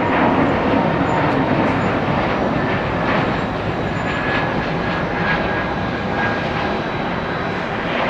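Jet airliner's engines, a loud, steady rush with a faint whine that drifts slightly lower in pitch as the aircraft passes.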